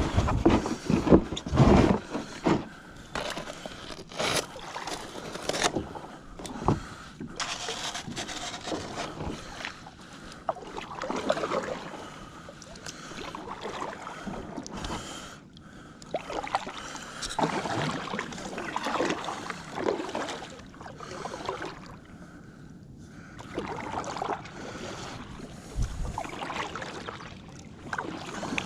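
Kayak paddling: paddle blades splashing into the water and knocking against the hull, with water sloshing along the kayak. The strokes come irregularly, with a few heavier thuds in the first couple of seconds.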